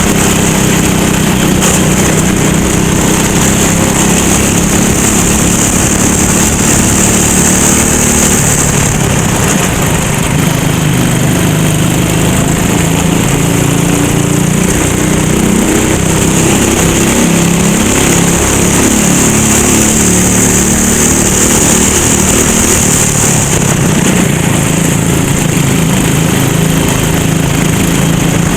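Go-kart engine running loud and continuously at race pace, its pitch rising and falling several times as the throttle comes on and off.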